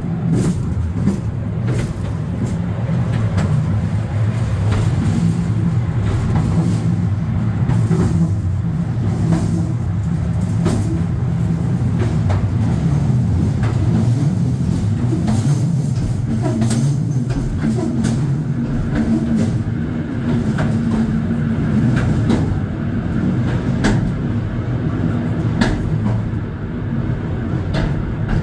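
Indian Pacific passenger train running: a steady low rumble with frequent sharp clicks and knocks from the wheels and carriage. A faint steady high tone joins about two-thirds of the way through.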